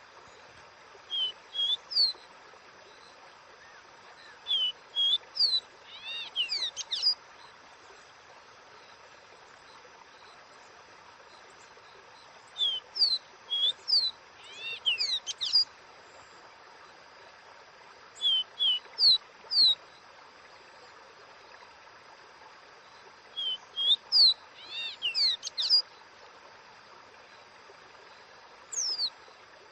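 Caboclinho, a Sporophila seedeater, singing its 'dó ré mi' song: short phrases of clear whistled notes, usually two lower notes followed by a higher upslurred one, some phrases run on into a quick tumble of notes. The phrases come about every four to six seconds over a steady faint hiss.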